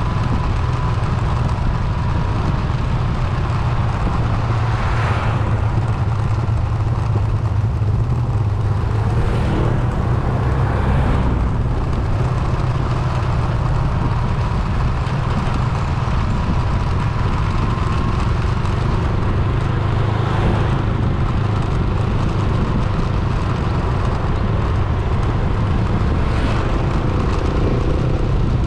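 Car driving on a road: a steady low rumble of engine and road noise, with a few brief louder swells of passing traffic.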